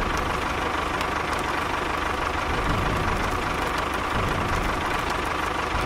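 Small electric motor of a DIY mini tractor or mini bulldozer running steadily, a constant hum with a faint whine.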